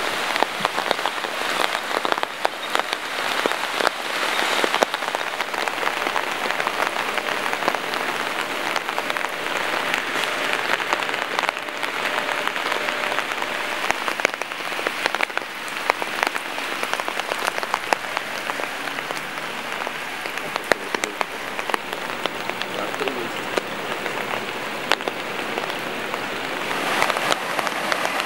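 Steady rain falling, with many sharp individual drop impacts heard close by.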